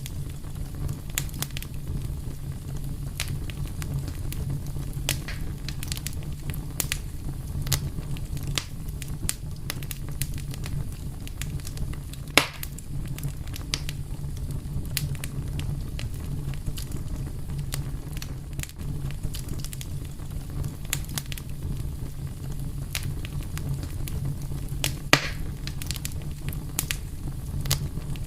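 Wood fire burning with a steady low rumble and frequent sharp crackles and snaps, with two louder pops, one about halfway through and one near the end.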